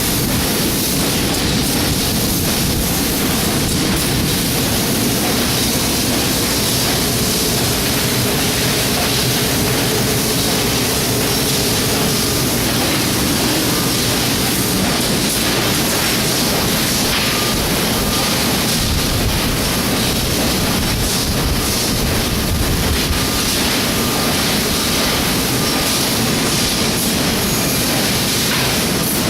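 Mazak HyperGear 510 CNC laser cutter at work: a loud, steady machine noise of rushing air and motors, with a faint high tone coming and going in the second half.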